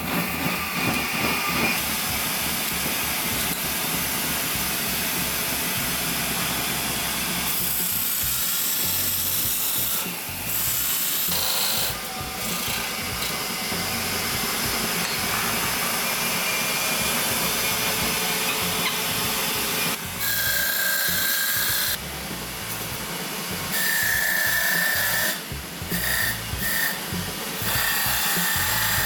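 Woodworking power tool cutting into a pine 2x6 board, running steadily with a few brief dips in load and a high whine now and then.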